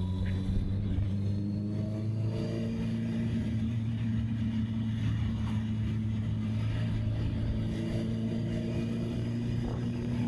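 Honda CB650R's inline-four engine running under way, its pitch rising over the first couple of seconds as it accelerates, then holding steady at a cruise, with wind noise on the microphone.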